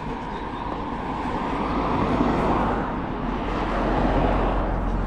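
Road traffic passing close by: engine and tyre noise that swells to a peak about two seconds in, dips briefly, swells again about four seconds in, then fades.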